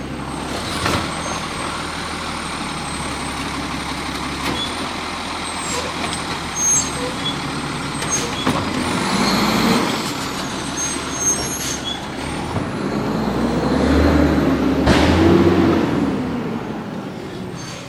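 Garbage truck collecting yard waste: its diesel engine runs steadily with scattered short sharp clunks or hisses, and the engine and a whine rise and fall around ten seconds in and again, loudest, around fifteen seconds in as it works.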